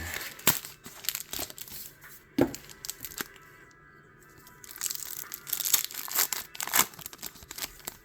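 Pokémon card pack packaging being torn open and crinkled, in irregular crackles that come thickest about five seconds in. Background music plays underneath.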